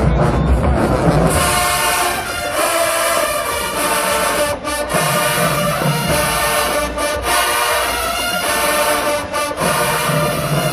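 Marching band brass section playing loud, held chords over bass drums. The whole band stops sharply for an instant a few times.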